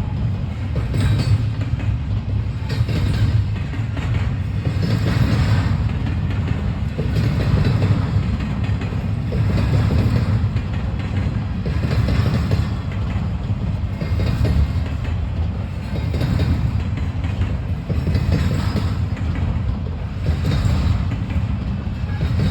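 Intermodal freight train cars rolling past: a steady low rumble of wheels on rail, with a surge of wheel clatter about every two seconds as each car's trucks go by.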